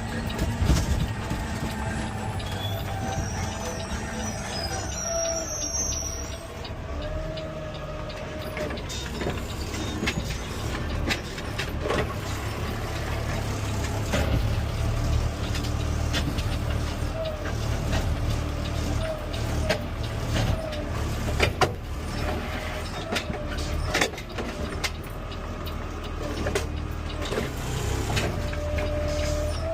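CNG Peterbilt 520 garbage truck running, heard from the driver's cab: a steady low engine rumble with a whining tone that rises and falls, and scattered sharp knocks and clunks.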